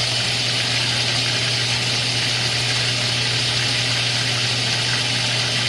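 Whirlpool WTW5010LW top-load washer filling: a steady rush of water pouring into the tub, with a constant low hum underneath.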